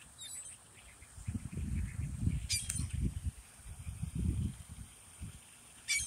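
Short, sharp bird chirps, one about two and a half seconds in and another near the end, over a louder, uneven low rumble of the phone being carried along.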